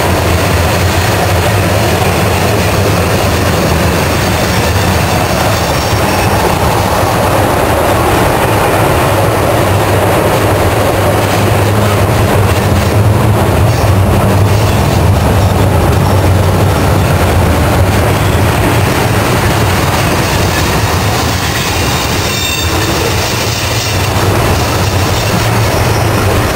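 Freight train rolling past: a loud, steady rumble of wheels on rail.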